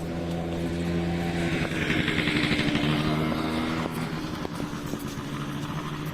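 A motor vehicle engine running close by: a steady low hum that shifts pitch about a second and a half in, with a hiss that swells and fades as it passes, loudest about two to three seconds in.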